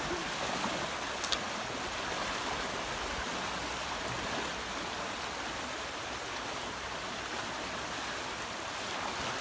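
Steady rush of a river running high in flood, with a single brief click about a second in.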